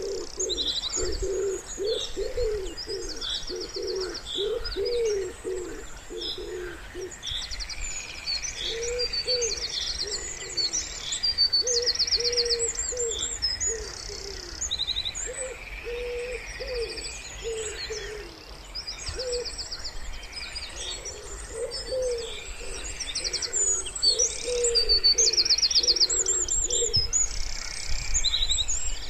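Wood pigeon cooing over and over in low phrases, while small songbirds chirp and sing fast high trills above it.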